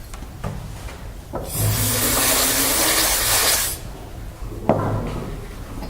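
Compressed air blown in one burst of about two seconds to clear dust from a laptop's cooling fan and heatsink, a steady hiss that starts and stops abruptly, followed by a single sharp click near the end.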